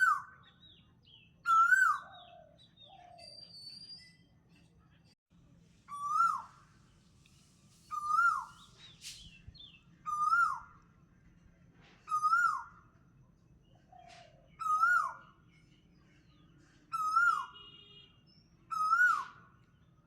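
A bird calling over and over, a short whistled note that rises and then drops, about every two seconds. Fainter chirps of other birds come in between.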